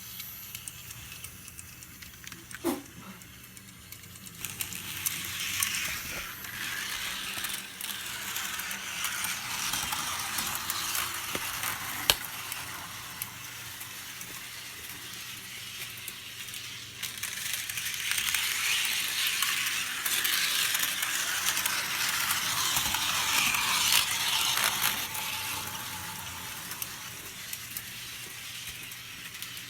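An HO-scale model locomotive running along its track: a small electric motor and wheels making a steady mechanical rattle over the rails, which swells louder twice as the engine passes close.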